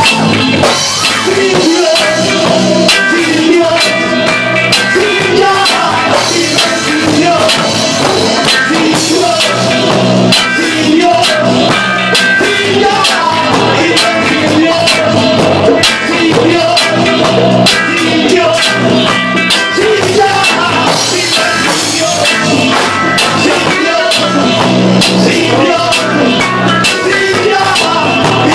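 Roots reggae band playing a passage without sung lyrics: drum kit keeping a steady beat under bass and a melodic lead line.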